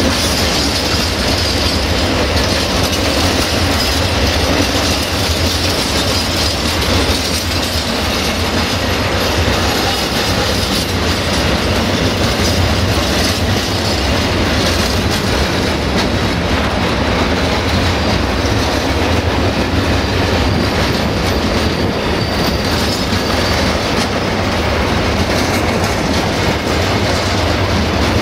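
Freight wagons rolling past at close range, open wagons and then tank wagons, their wheels running on the rails in a loud, steady rumble.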